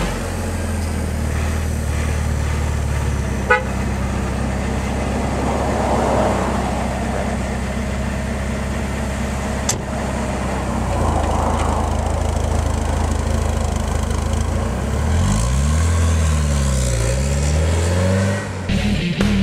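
1984 Porsche 944's 2.5-litre inline four-cylinder engine idling steadily at the exhaust. About fifteen seconds in, its revs rise and fall twice as the car pulls away and drives off.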